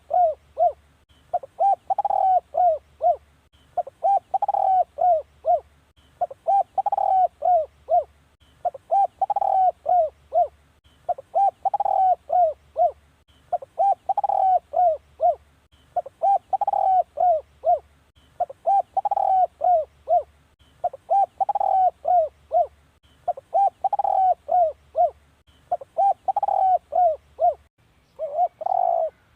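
Spotted dove cooing: a phrase of several quick coos, repeated about every two and a half seconds, the call used as a decoy to lure wild spotted doves.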